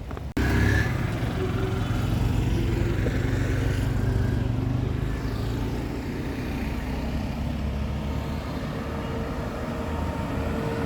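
Town street traffic, with a motor vehicle's engine running steadily close by. The sound cuts in suddenly about a third of a second in.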